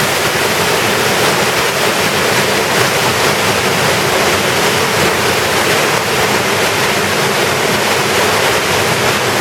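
Waterfall inside a cave pouring steadily into its pool: a loud, even rush of water with no let-up.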